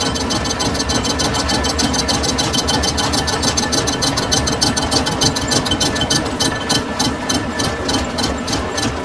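Metal-turning lathe running, with a steady hum and a rapid, even ticking of about ten ticks a second.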